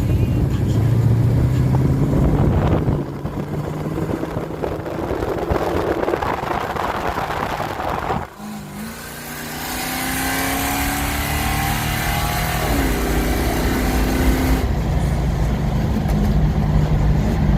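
Car engine running, with a steady low note at first. About eight seconds in, an engine is revved or accelerated, its pitch climbing for several seconds before it settles back into steady low running.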